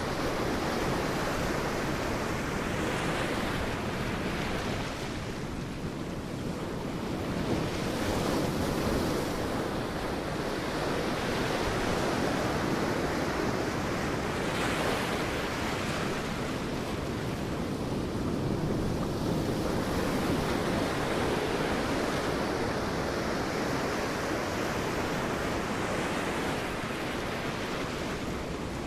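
Sea waves breaking and washing on a beach, the surf swelling and easing every few seconds, with some wind.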